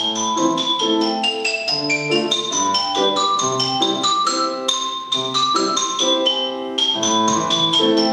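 Instrumental music played live: a fast, unbroken stream of struck, ringing notes over a lower line of held bass notes.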